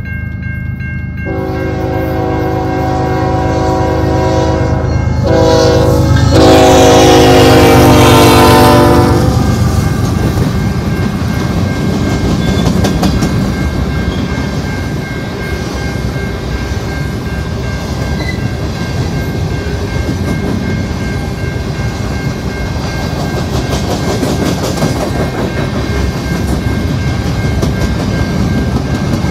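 Freight train led by a GE ES44AC diesel locomotive sounding its air horn, a chord of several notes in two long blasts, dropping in pitch and loudest as the locomotives pass. Then the train's cars rumble past with a steady clickety-clack of wheels over the rail joints.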